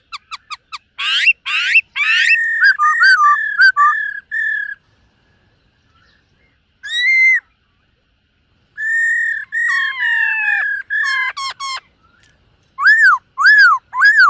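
Black-throated laughingthrush singing. It opens with a quick run of short notes, then gives loud rising sweeps and a string of clear whistled phrases, with two pauses. It ends with three arched whistles in a row.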